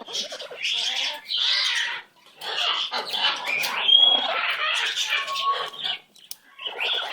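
Pet bird chattering and squawking in rough bursts, with a short high whistle about four seconds in and a lower held note a second later.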